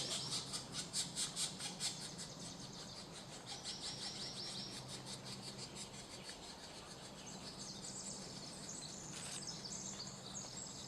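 Pileated woodpecker nestlings calling from the nest cavity in a fast, even run of high calls, about five a second, which fades out about two seconds in. A shorter run of the same calls comes around four seconds in, and thin high chirping follows in the last few seconds.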